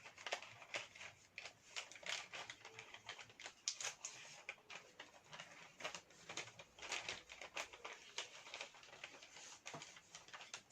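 A folded paper model being creased and folded by hand: a faint, irregular run of crackles and small taps from the paper.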